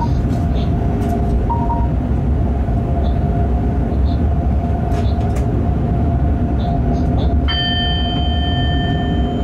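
Freight train running on the line, heard from the locomotive cab: a steady low rumble with a constant whine and occasional light clicks. About seven and a half seconds in, a high steady tone of several pitches sets in suddenly and holds for about two seconds.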